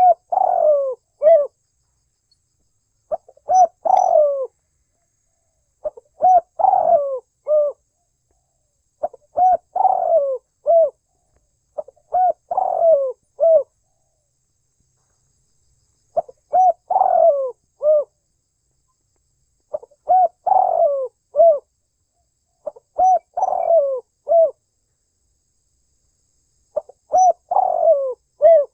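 Spotted dove (tekukur) cooing: a phrase of several short coos, repeated about every three seconds, nine times over.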